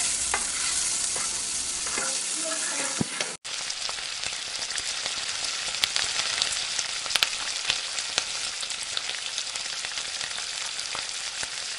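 Onion and spice masala sizzling in hot oil in an aluminium pot after a cup of water has been added: a steady, dense hiss with small crackles, which cuts out for an instant about a third of the way in. Near the end a spoon stirs through the pot.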